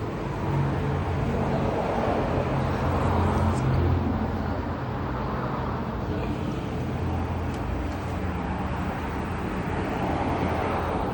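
A motor vehicle's engine running slowly nearby, a steady low hum that grows louder about two to four seconds in and again near the end, over street traffic noise.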